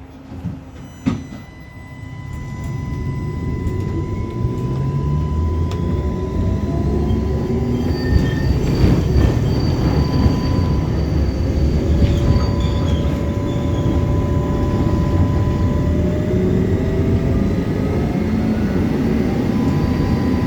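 Electric tram pulling away and running on its rails: a low rumble of wheels on track that builds over the first few seconds and then holds steady, with motor whine tones that slowly rise in pitch as it gathers speed.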